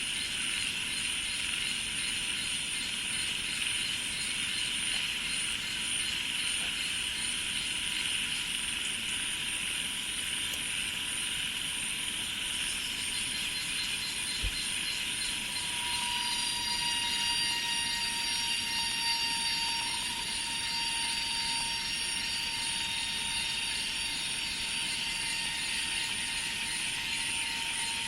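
Steady insect chorus of cicadas and crickets: a dense, even buzz with a fast pulsing trill high above it, and a thin whistling tone that brightens and is joined by higher tones about halfway through.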